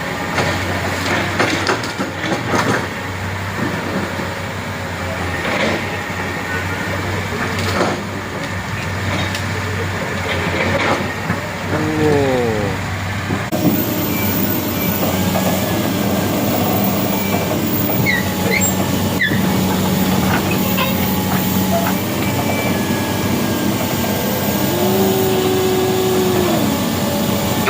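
Heavy vehicle engines running steadily, with scattered knocks and clatter; the sound changes abruptly about halfway through.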